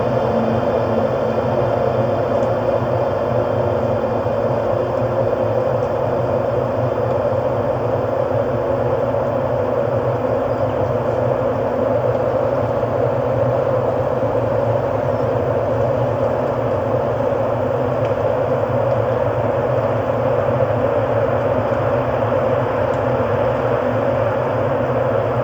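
Ambient electronic music: a steady, unchanging drone with faint held tones over a noisy hum, without beat or melody.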